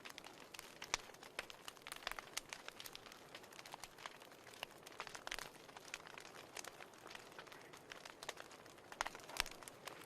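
Wood fire in a fireplace crackling, with irregular sharp pops and snaps over a soft hiss, a few louder pops near the end.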